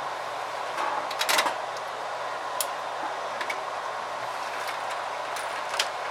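Small clicks and clatter of hard parts being handled as a battery pack is reassembled: a quick cluster about a second in, then single clicks, over a steady background hiss.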